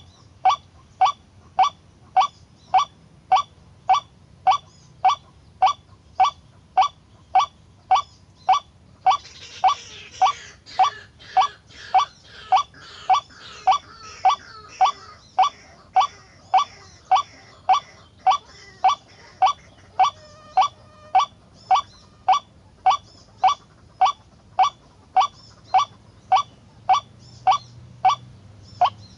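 White-breasted waterhen call: a short, pitched 'kruak' note repeated at a very even pace, about one and a half calls a second. A hissing rustle joins in from about nine seconds to sixteen seconds.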